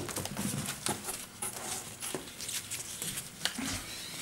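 Cardboard shipping boxes and packing being handled: irregular rustles, scrapes and light knocks.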